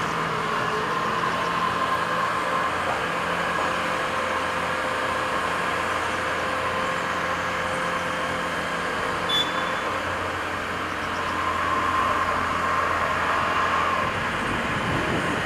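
Diesel engine of a compact construction machine running steadily while working, with a steady high whine above it. A single short click comes about nine seconds in.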